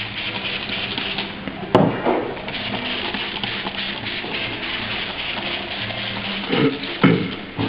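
Steady hissing hum with a sharp knock about two seconds in and two more thumps near the end, typical of a bag and foam blocks being handled on a bench.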